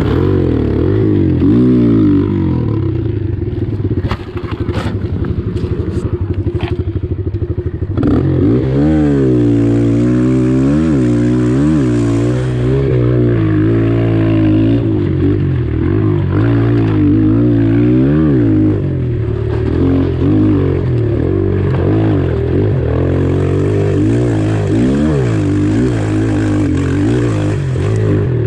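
Pit bike engine running hard, its pitch rising and falling over and over as the throttle opens and closes, with a few sharp clatters about four to seven seconds in.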